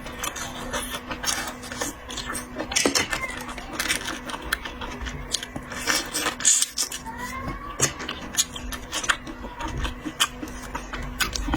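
Close-miked eating of a seafood platter: wet chewing, sucking and lip smacks with many small irregular clicks, over a faint steady hum.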